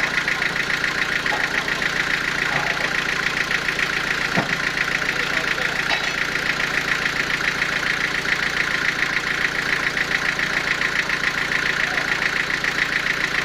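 Sawmill machinery running steadily with a fast, even pulsing.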